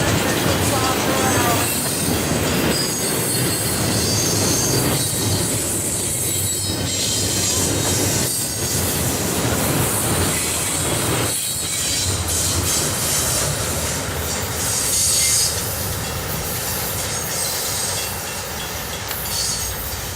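Union Pacific double-stack freight train rolling past, a steady rumble of steel wheels on rail with the wheels squealing in high, thin tones that come and go several times.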